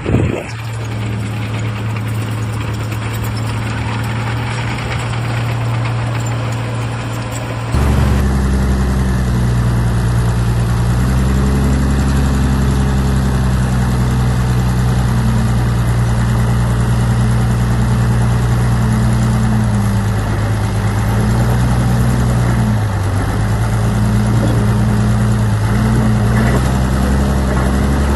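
Heavy diesel engine of earthmoving machinery running steadily at a low, even pitch. About eight seconds in it switches abruptly to a louder, deeper engine note that holds with only slight changes in pitch.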